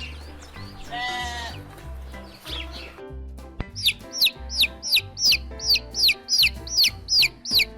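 Background music with farm-bird calls: a drawn-out falling call about a second in, then a steady run of high, falling peeps, about three a second, typical of young fowl.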